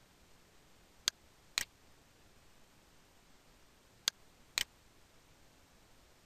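Computer mouse button clicks: two pairs of sharp clicks, one pair about a second in and another about four seconds in, the two clicks of each pair half a second apart, over a faint steady hiss.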